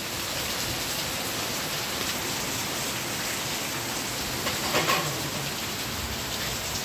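Heavy rain falling steadily, an even hiss, with a short voice-like sound about five seconds in.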